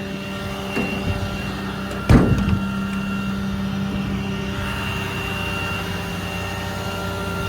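Ram 5500 truck engine running steadily with the PTO engaged, a constant pitched hum. A single sharp knock about two seconds in is the loudest moment.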